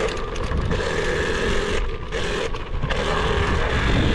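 Dirt bike riding along a muddy trail: steady motor and drivetrain noise over a heavy rumble.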